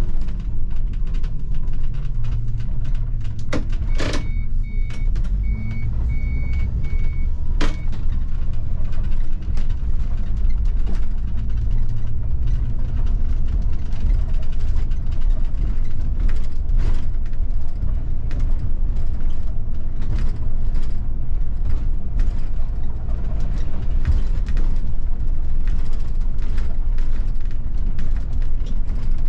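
Bus running with a steady low engine and road rumble heard from the driver's cab. About four seconds in, a run of short high beeps sounds for about four seconds, with a sharp clunk at its start and another at its end.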